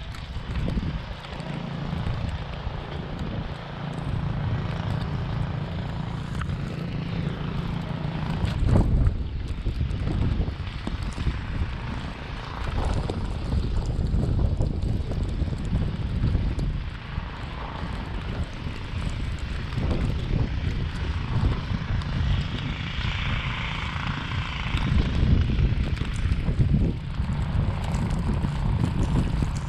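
A steady low engine drone, with rough gusts of wind buffeting the microphone.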